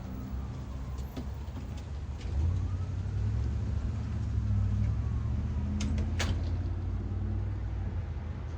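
Street traffic: a motor vehicle's low engine rumble swells about two seconds in and holds, with two sharp clicks a little past the middle.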